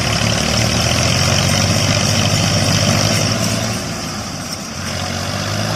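Massey Ferguson 240 tractor engine running steadily, easing slightly about four seconds in.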